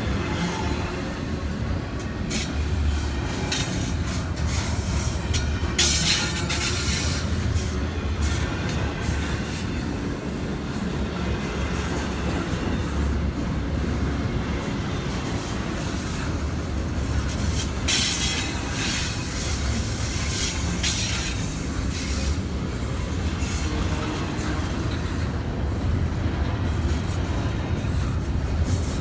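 CSX freight train rolling past: a steady low rumble of cars on the rails, with a few brief, sharp, high noises on top.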